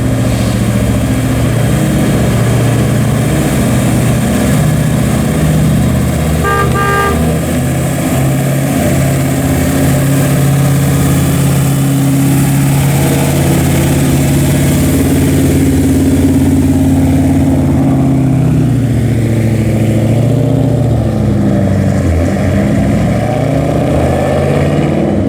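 A 383 stroker V8 with headers and a full exhaust runs with a steady rumble, its speed rising and falling in the last several seconds. A short horn-like toot sounds about seven seconds in.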